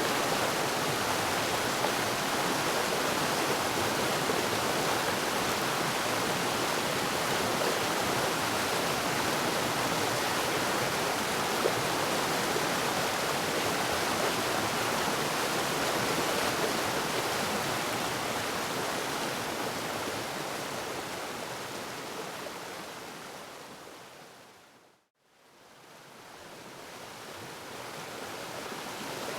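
A waterfall's steady rushing. About two-thirds of the way through it fades down to silence, then fades back in, as at the joining point of a looped recording.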